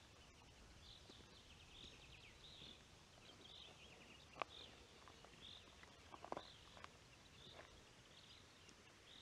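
Near silence outdoors, with a small bird faintly repeating one short high note about once a second, and a few soft scattered clicks.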